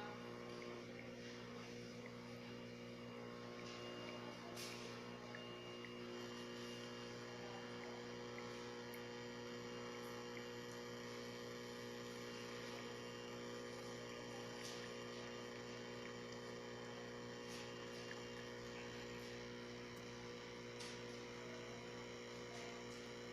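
Capsule coffee machine's pump humming steadily while it brews, with a few faint ticks, then cutting off abruptly at the end.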